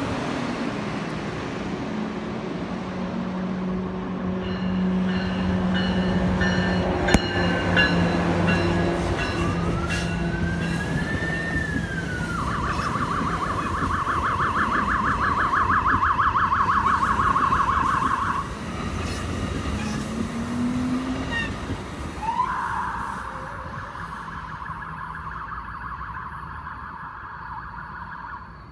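Exo commuter train of bilevel coaches passing close by, its locomotive engine and wheels on the rails loud and steady. From about ten seconds in, an emergency vehicle siren wails up and down and then switches to a rapid yelp. It falls off for a few seconds and comes back for the last part.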